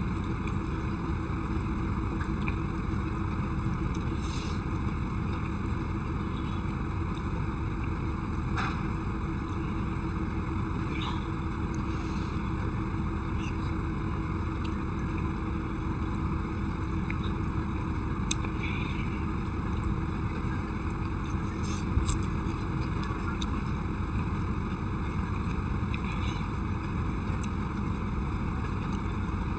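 Steady rushing noise with a low hum, with a few faint clicks and taps of eating scattered through, the loudest about 22 seconds in.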